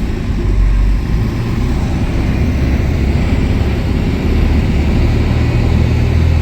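Heavy diesel engine running steadily with a deep, low drone that grows somewhat stronger in the last couple of seconds.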